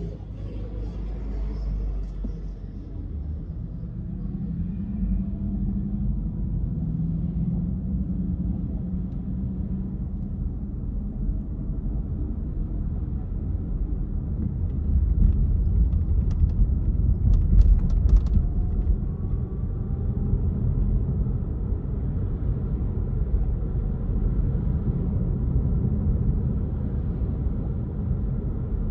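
A car driving, its engine and tyres making a steady low rumble that swells for a few seconds past the middle, with a few faint clicks during the swell.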